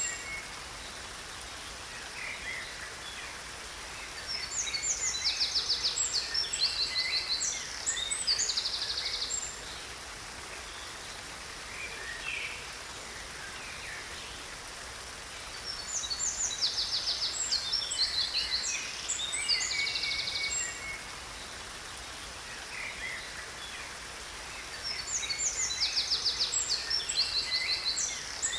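Songbirds singing in three bouts of fast, high repeated trills and chirps, roughly ten seconds apart, over a steady rush of falling water from a waterfall.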